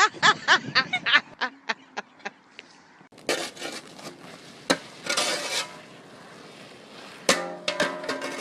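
A person laughing hard in quick repeated bursts that fade out over the first two seconds or so. After that come a few scattered sharp knocks and short rustling noises.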